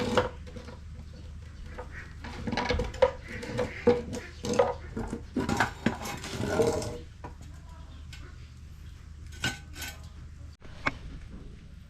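Metal tools and engine parts clanking and clinking against each other while being handled during an engine teardown: a quick run of knocks with a ringing metallic note for several seconds, then a few single clanks.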